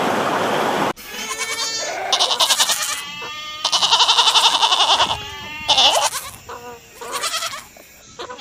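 Goats bleating: a run of several quavering calls that starts abruptly about a second in, the longest and loudest about four seconds in.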